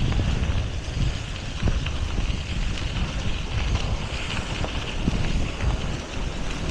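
Wind buffeting the microphone of a camera carried on a moving bicycle: a gusty low rumble over a steady hiss.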